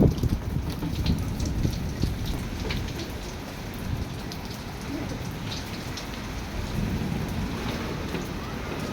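Heavy rain falling steadily, with scattered sharp drop hits over a low rumble that eases off a little over the first few seconds.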